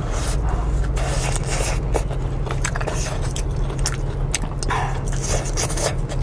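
Close-miked eating sounds: a person chewing and biting into noodles, with many short wet mouth clicks and brief smacking noises, over a steady low hum.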